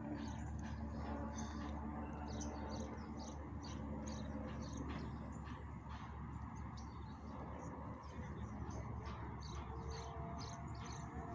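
Small birds chirping: many short, high chirps, several a second, over a low steady background rumble.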